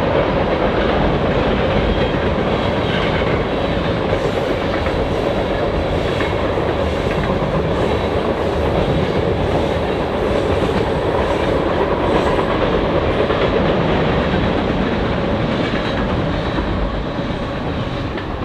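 A train passing, a steady loud rumble of rolling railcars with wheels clicking over the rail joints.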